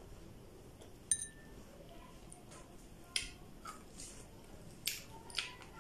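Close-up mouth sounds of someone eating okra: a handful of short, sharp wet clicks and smacks from chewing and biting, one about a second in and more around the third and fifth seconds.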